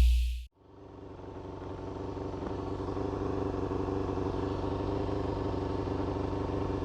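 Electronic intro music cuts off, then a Yamaha FZR250's inline-four engine fades in, running steadily at a constant pitch.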